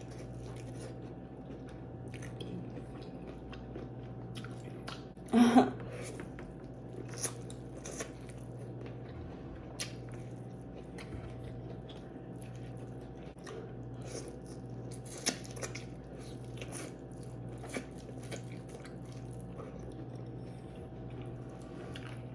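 Close-up eating sounds: biting and chewing of seafood-boil food such as corn and shrimp, with scattered small clicks and smacks and one louder brief mouth sound about five seconds in. A steady low hum runs underneath.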